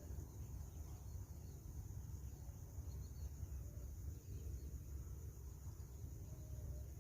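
Rice-field ambience: a steady high insect trill over a low rumble, with a few faint short calls, one near the middle and one near the end.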